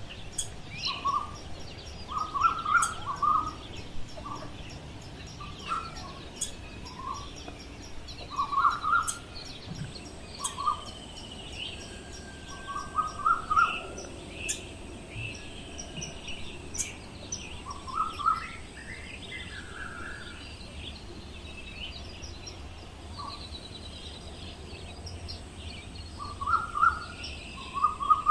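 Birds calling: short calls repeated in little clusters every second or two, with fainter, higher chirping behind them.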